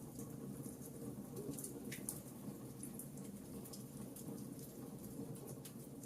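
Campfire crackling: sharp little pops and snaps scattered irregularly, several a second, over the low steady rush of the burning wood.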